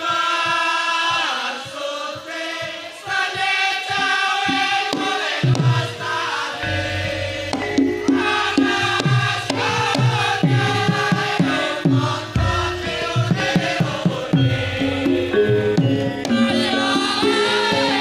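Javanese traditional music for a mask dance: singing over melodic instruments, with drums and low beats coming in about five seconds in, after which the music grows fuller and more rhythmic.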